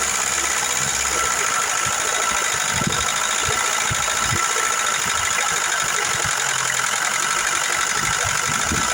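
Car engine idling steadily while its noisy hydraulic lifters fill with oil.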